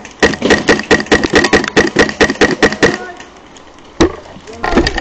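Airsoft gun firing a rapid string of shots, about six or seven a second, for about three seconds, then one more single shot about four seconds in.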